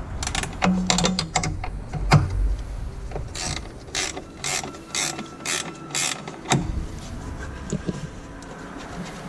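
Socket ratchet clicking in short strokes, working loose a battery hold-down bolt, among light clicks and knocks of the tool on metal.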